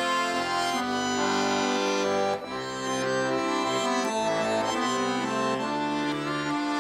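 Accordion playing an instrumental interlude between verses of a slow Russian song: sustained chords under a simple melody.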